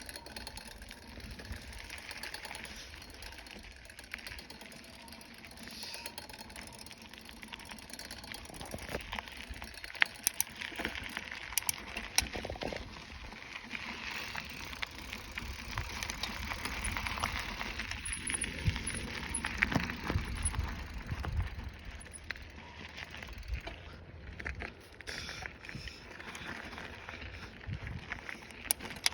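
Bicycle being ridden: a steady rolling noise with a low rumble and scattered sharp clicks and rattles.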